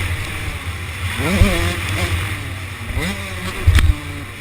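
Motocross bike engines revving, the pitch sweeping up and falling back twice, with a couple of heavy low thumps.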